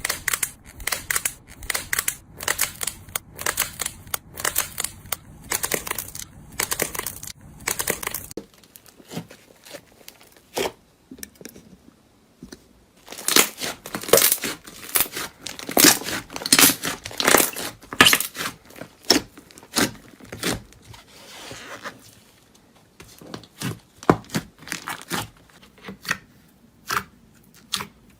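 Dense runs of sharp crackling and crunching as a crunchy material is crushed, with a lull in the middle and sparser crackles toward the end.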